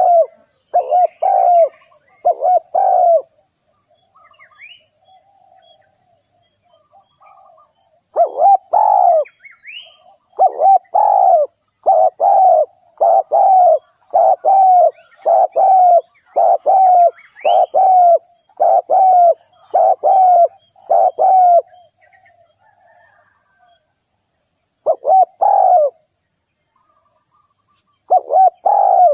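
Spotted doves cooing in repeated phrases of low, rounded notes. A few phrases come at the start, then a long unbroken run of about fifteen phrases, then a pause, and two more phrases near the end. Faint chirps of small birds sound in the background.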